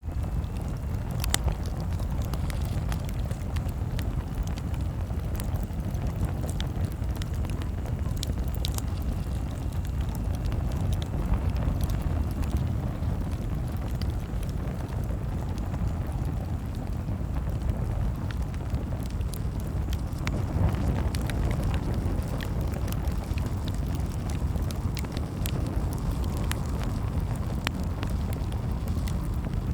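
Campfire crackling: scattered sharp pops and snaps over a steady low rumble, like wind on the microphone.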